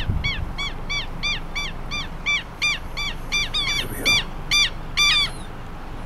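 A bird giving a rapid run of short calls, each rising then falling in pitch, about three a second. The calls grow louder about four seconds in and stop soon after.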